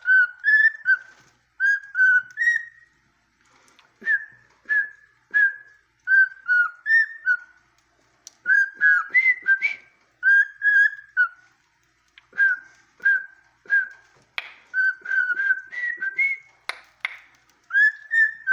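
Cockatiel whistling a tune it is still learning, in short repeated notes and little up-and-down glides, phrase after phrase with brief pauses. A few sharp clicks fall between the notes.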